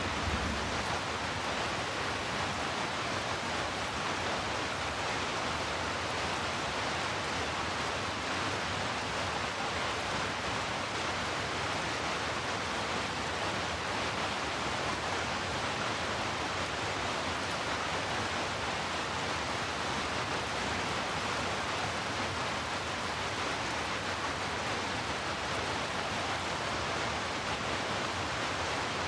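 Heavy rainfall blended with brown noise into a steady, unchanging hiss, with no separate drops or thunder standing out.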